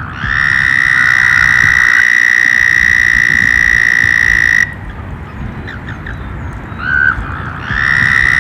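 A frog's long, steady trill on one pitch, lasting about four and a half seconds. A short lower note comes about seven seconds in, and the trill starts again near the end.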